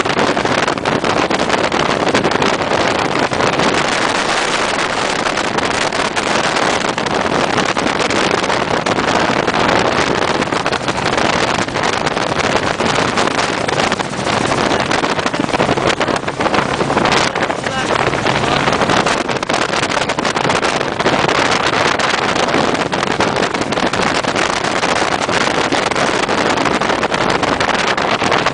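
Helicopter running, a loud, steady roar of engine and rotor with a faint low hum underneath.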